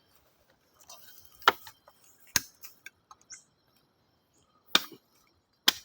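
A few sharp, separate clicks or snaps at uneven intervals, the loudest two about a second and a half and two and a half seconds in, with two more near the end.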